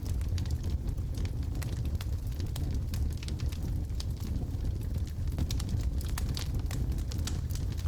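Wood logs burning in a fireplace: a steady low rumble of flame with frequent sharp crackles and pops scattered throughout.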